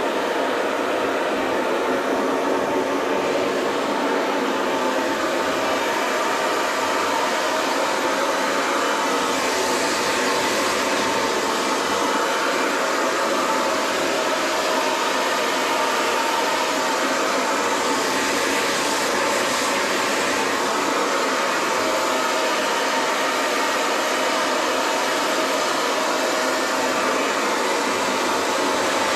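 Handheld hair dryer blowing steadily, a constant rush of air with a faint motor whine, brightening slightly for a moment a couple of times as it is moved about.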